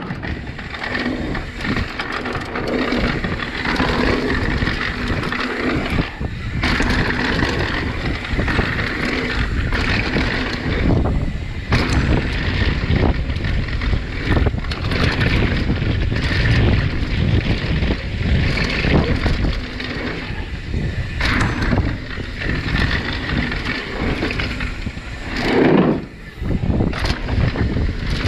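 Mountain bike rolling down a dirt downhill trail: a continuous rush of wind on the camera microphone mixed with tyre noise over dirt and rock, and the bike rattling, with several sharp knocks over bumps.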